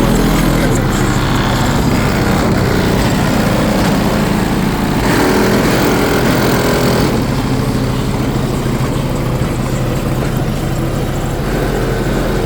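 Loud vehicle engine running steadily, with a noisier surge from about five to seven seconds in.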